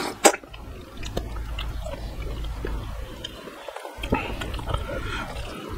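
Close-miked mouth sounds of a man eating a handful of rice and dal: two sharp smacks right at the start as the mouthful goes in, then steady wet chewing with small clicks.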